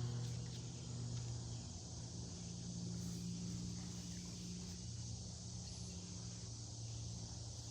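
Steady high-pitched buzzing of insects such as crickets, with a low steady hum underneath.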